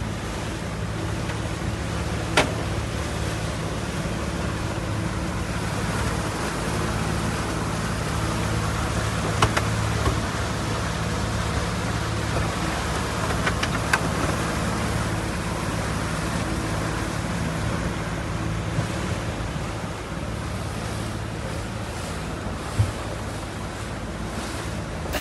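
Boat engine running steadily, mixed with wind and water noise, with a few sharp clicks or knocks scattered through.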